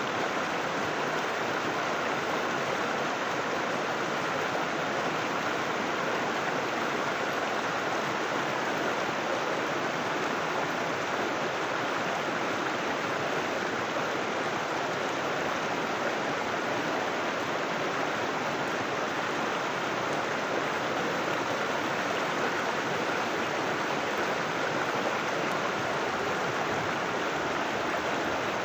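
River water rushing and babbling over rocks, a steady even flow.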